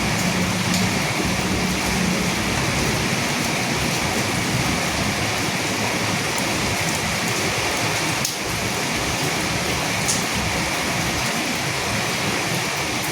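Steady rain falling in an even, dense hiss, with a few sharper drops ticking out now and then. A faint low rumble dies away in the first couple of seconds.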